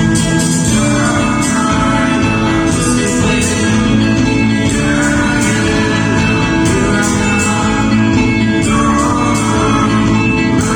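Live gospel music: a band with guitar and drums playing, with singing.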